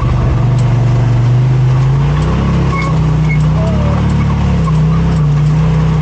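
Side-by-side UTV engine running under way, its pitch stepping up about two seconds in and then shifting up and down with the throttle.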